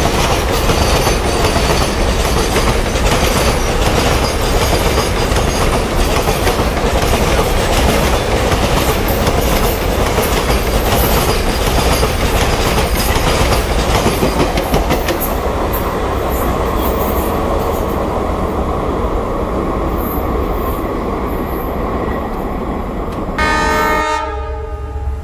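Indian Railways freight train rolling past close by, its wagons clattering over the rail joints. Near the end a short locomotive horn blast of about a second sounds, and the sound changes abruptly just after it.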